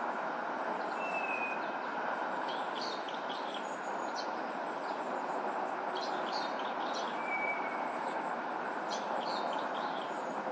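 Unidentified songbird giving a short, level whistled note twice, once about a second in and again past the middle, with bursts of quick high chirps in between. Under it runs a steady rushing background noise.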